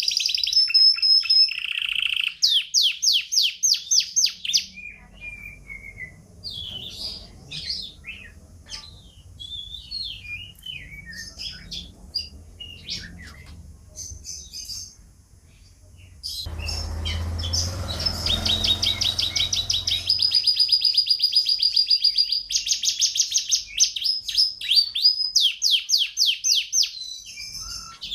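Domestic canary singing: fast, rolling trills of rapidly repeated high notes, broken by a softer stretch of scattered chirps and short phrases in the middle before the trills resume. A few seconds of low rushing noise sit under the song about two-thirds of the way in.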